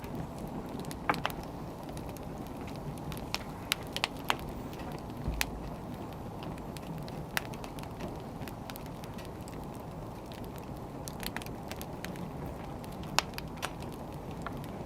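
Wood fire burning with a steady low rustle and irregular sharp crackles and pops from the firewood, a dozen or so, the loudest about a second in and near the end.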